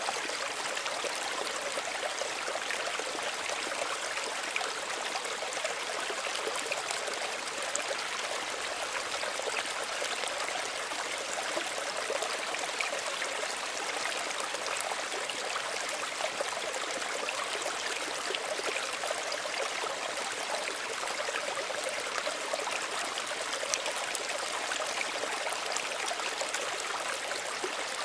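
Small stream running steadily over stones, a continuous burbling and trickling with no breaks.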